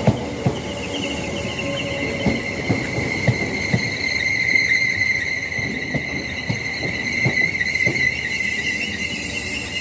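Train wheels squealing as a train moves slowly through the station: a steady, slightly wavering high-pitched squeal, with irregular clicks and knocks of the wheels over rail joints.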